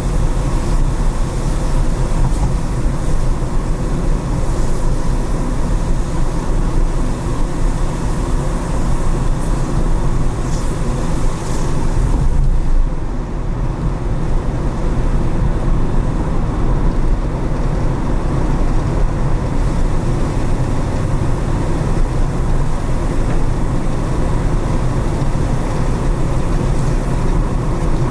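Steady road noise of a car driving on wet city streets, a low rumble of engine and tyres, with a brief rise in high hiss about ten seconds in.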